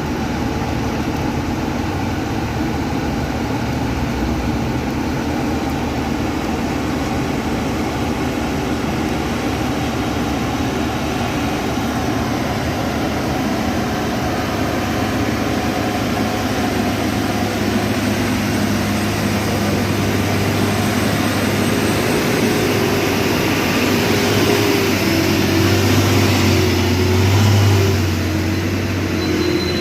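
Heavy vehicle engine running steadily, growing louder near the end.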